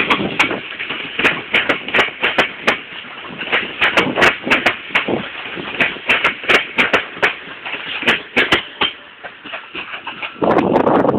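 Train wheels clattering over rail joints and points: an irregular run of sharp knocks, two to four a second, that thins out and grows quieter near the end.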